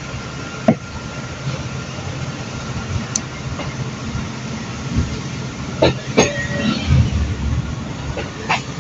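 Passenger train running, heard from inside the carriage: a steady low rumble with a faint steady whine, and several sharp clicks and knocks from the running gear.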